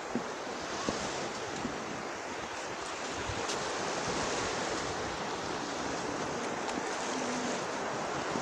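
Black Sea surf: a steady rush of waves washing onto the shore, swelling slightly in the middle.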